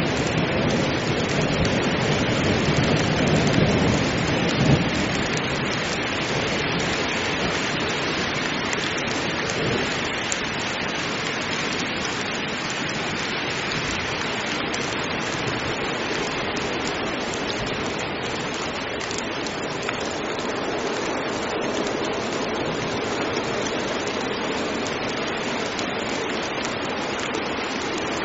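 Heavy rain falling steadily, with a low rumble of thunder in the first few seconds that fades away.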